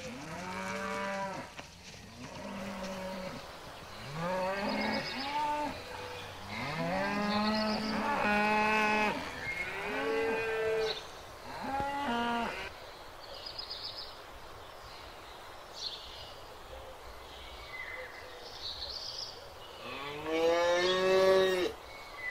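Cows mooing: a run of long, drawn-out moos, each rising in pitch as it starts, coming one after another, then a lull, then one last loud moo near the end.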